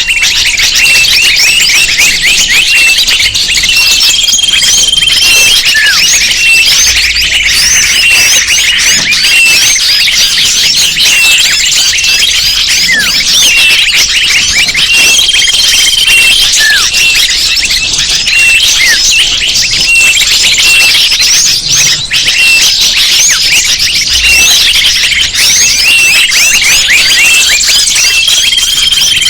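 Dense, loud chorus of many small birds chirping and twittering rapidly, all high-pitched and overlapping, with a held whistle returning about every twelve seconds: a looped bird-lure (pikat) recording played to draw birds in.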